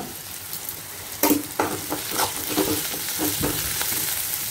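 Onion, spring onion and paneer stir-fry sizzling in hot oil in a kadai, with a spatula stirring it in short irregular strokes over a steady sizzle.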